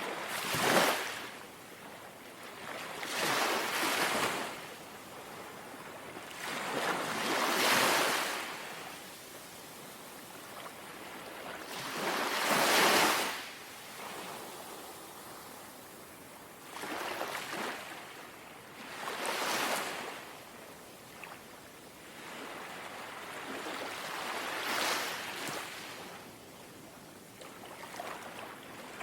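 Gentle sea waves lapping at the shore, each one a soft wash that swells and fades, about every three to five seconds, over a low steady hiss of water.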